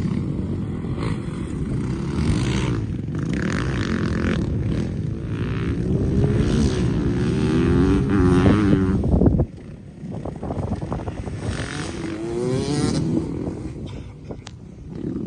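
Dirt bike engine revving up and easing off as it is ridden, under heavy wind rumble on the microphone. The rumble cuts off suddenly about two-thirds of the way through, then the engine rises in pitch once more and fades.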